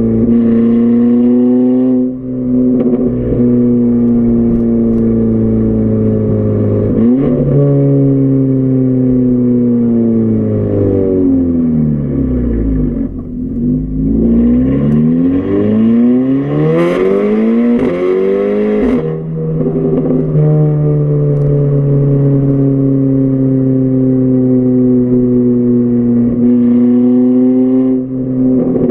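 Volkswagen Golf R Mk6's turbocharged 2-litre four-cylinder with a muffler-deleted exhaust, droning steadily under way: the drone comes from the poorly done muffler delete. About halfway through the engine note drops as the car slows, then climbs sharply under hard acceleration before a gear change brings it back to a steady cruising drone.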